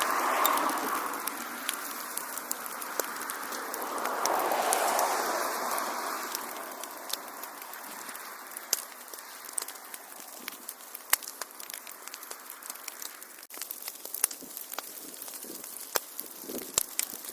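Wood fire crackling: scattered sharp pops and snaps over a soft hiss of burning, which swells twice in the first few seconds and then settles quieter.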